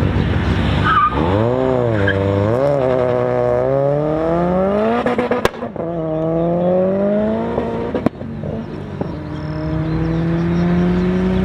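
Car engine under hard acceleration on a drag run. The revs bob up and down at the launch, then climb steadily through the gears, with a sharp gear change about halfway through and another about two-thirds of the way in.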